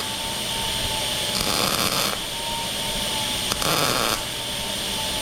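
MIG welder laying two short welds on the sheet-metal radiator support bracket, each a hiss of about half a second, about two seconds apart, over a steady background hum with a faint whine.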